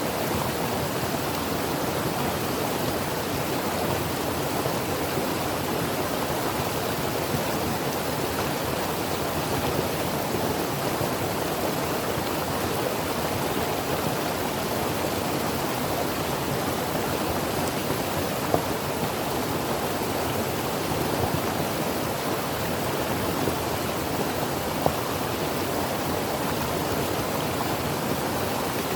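Creek water running over stones: a steady rushing and babbling with an occasional small splash.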